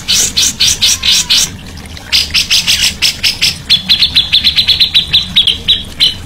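A songbird calling in a string of loud, sharp chips, a few a second, then breaking into a faster run of about nine notes a second near one pitch.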